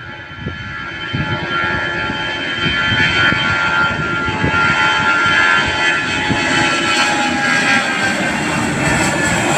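Airbus A320's twin CFM56 turbofan engines at takeoff power, growing louder over the first three seconds and then holding steady: a high whine over a rumble.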